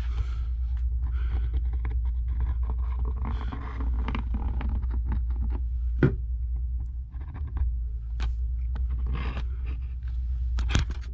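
Steady low hum, with small scrapes and clicks of hands and tools working on the workbench and one sharper click about six seconds in.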